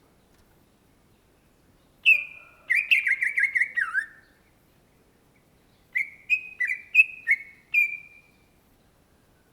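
Greater green leafbird (cucak ijo) singing. A fast, warbling run of notes comes about two seconds in, then a string of about six short, clear, downslurred whistles.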